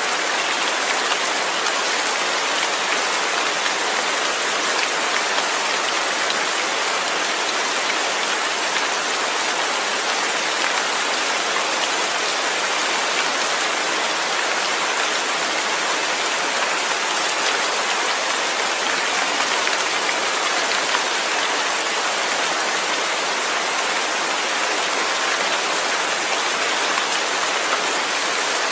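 Steady rain falling, a dense even patter with no breaks or thunder.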